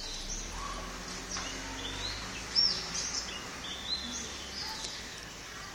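Several birds chirping and calling in short rising and falling notes, one call standing out louder about two and a half seconds in, over a faint steady low background hum.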